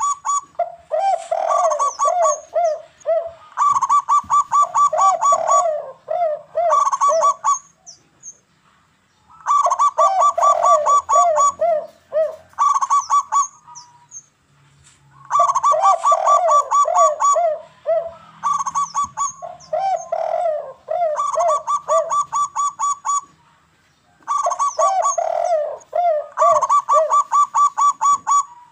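Zebra doves (perkutut) singing: phrases of rapid, evenly spaced cooing notes alternating with lower falling coos, each phrase lasting three to four seconds and repeating every six seconds or so.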